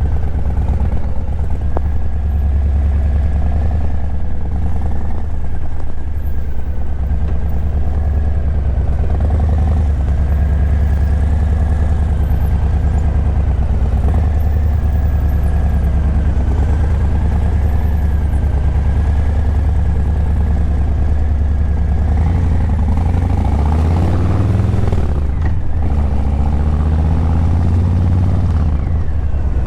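Harley-Davidson Breakout 117's Milwaukee-Eight 117 V-twin running through Vance & Hines Eliminator 300 slip-on exhausts while riding, a deep steady beat at cruising speed. About 22 seconds in the engine speed changes, the pitch dipping and rising for several seconds before settling again.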